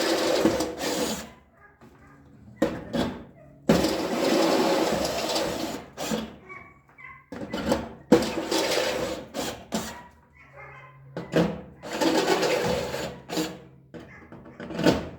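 Power drill with a step drill bit running in four bursts of about two seconds each, enlarging holes in sheet metal that were drilled out of line.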